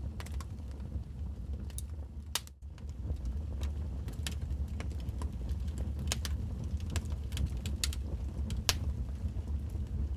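Wood fire in a fireplace crackling, with irregular sharp pops over a steady low rumble of the flames. The sound briefly drops away about two and a half seconds in.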